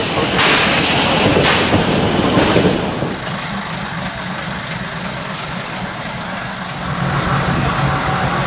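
Steam locomotive letting out heavy puffs of steam about once a second for the first three seconds, then a quieter, steady low rumble and hum that grows louder near the end.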